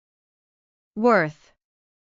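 Speech only: a voice says the single word "worth" once, with dead silence around it.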